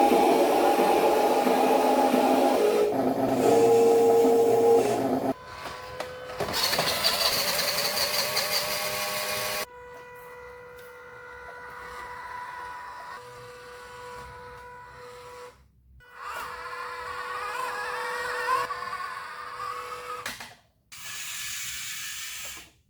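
Small electric motors of RC cars whining in a series of abruptly cut clips, with steady high buzzing tones and brief gaps between them.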